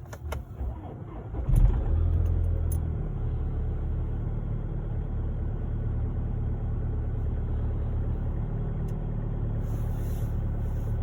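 Volkswagen Golf 7's 2.0 TDI four-cylinder turbodiesel cold-starting: a few clicks, a short crank, then the engine catches about a second and a half in with a brief flare of revs and settles into a steady diesel idle.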